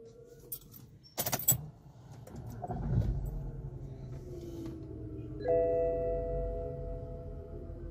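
A cluster of sharp clicks and a rattle, then the BMW 525i (E60) engine is started about three seconds in and settles into a steady idle. Just past halfway a dashboard chime sounds and rings on for about two seconds.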